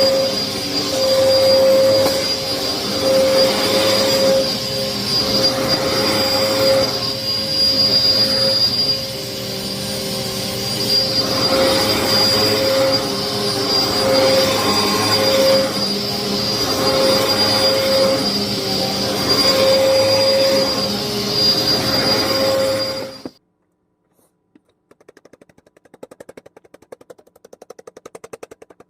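Hoover upright vacuum cleaner running with a steady motor whine that swells and fades about every two seconds, as with push-and-pull vacuuming strokes. The owner says the vacuum was clogged and never cleared. Near the end it shuts off abruptly, leaving faint ticking.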